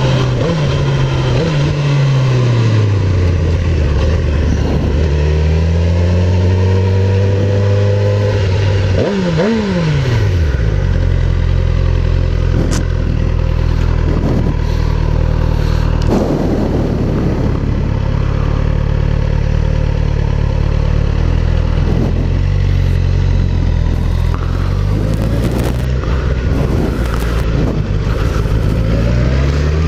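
Suzuki GSX-R1000R sportbike's inline-four engine heard from the rider's position while riding, with wind noise. The engine note falls over the first few seconds as the bike slows, drops and jumps back up with a quick rev about nine seconds in, holds steady, then climbs again near the end as it accelerates.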